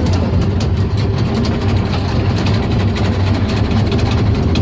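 Glass-bottom tour boat's engine running with a steady low drone.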